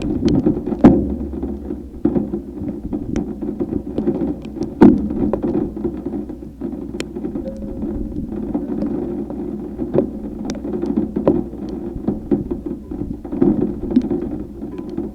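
Thunderstorm wind and rain buffeting the microphone with a steady low rumble, scattered with many sharp ticks of drops striking a hard surface.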